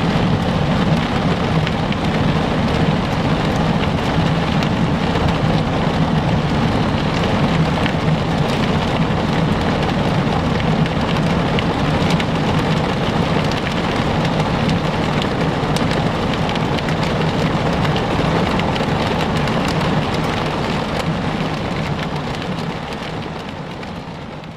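Heavy rain pelting down steadily, with many small, sharp ticks of drops striking a surface over a low steady hum. It fades out near the end.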